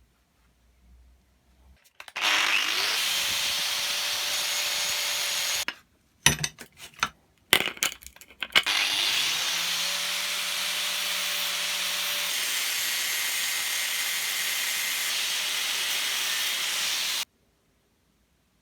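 A power tool running on a workpiece in two long stretches, about four and eight seconds, each starting with a short rising whine as the motor spins up. A few sharp knocks and clicks come between the two stretches.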